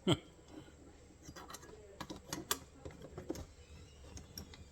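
Small metallic clicks and taps as the steel springs, levers and frame of an MB-550 foothold trap are worked into place with a screwdriver, with one louder knock right at the start.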